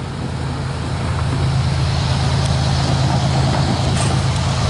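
CSX loaded coal train rolling past: a steady diesel drone under a broad rumble that grows slowly louder.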